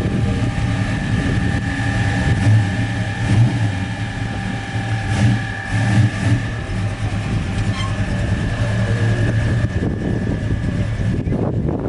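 A motor vehicle engine idling: a steady low rumble with a steady high-pitched whine over it.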